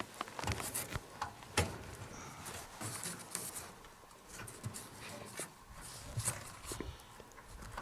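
Scattered light metallic clicks and knocks as wing nuts are loosened on a tent stove's sheet-metal side heat screens and the screens are handled.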